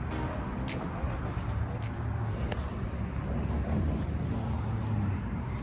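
BMW R1200 GS boxer-twin motorcycle running at low speed through town traffic: a steady low engine rumble with road and wind noise.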